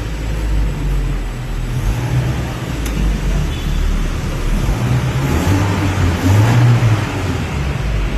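Car engine running, its low rumble rising and falling in level, loudest about six and a half seconds in.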